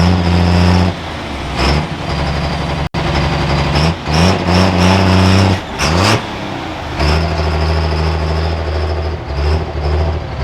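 Diesel pulling truck running hard on a sled pull. The engine surges and drops off several times, with a high whine riding over it.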